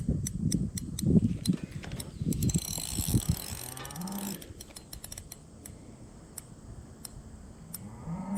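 Spinning fishing reel clicking steadily while a large carp fights on the line. The clicks come fastest with a hiss a few seconds in, as line is worked in and out.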